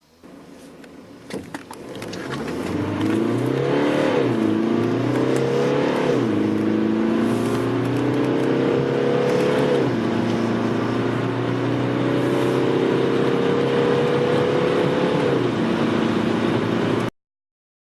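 A car engine accelerating hard from a standstill. Its pitch climbs steadily in each gear and drops sharply at four upshifts, after a brief click about a second in, and the sound cuts off suddenly near the end.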